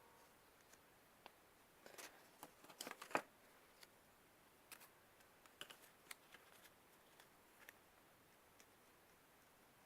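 Faint rustling and light clicks of paper being handled and creased, in two scattered clusters, the sharpest tick a little after three seconds in.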